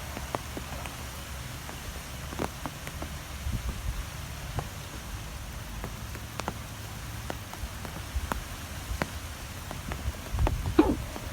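Strong wind rumbling low on the microphone, with scattered sharp ticks throughout; a louder gust comes near the end.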